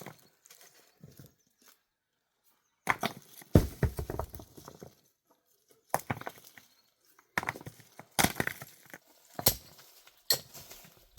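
Irregular knocking and clattering of hard objects being handled, in separate bursts with short quiet gaps, with one heavy thump about three and a half seconds in.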